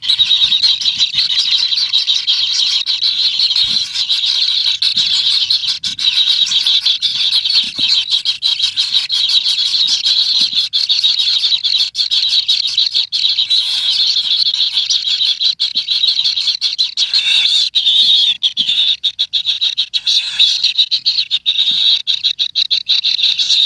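A dense, high-pitched, rapidly pulsing animal chorus of chirring and ticking, steady throughout.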